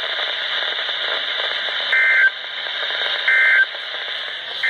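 Weather radio receiver hissing with static, then three short, buzzy two-tone data bursts about 1.3 seconds apart. The bursts are the SAME end-of-message code that closes an NWS warning broadcast.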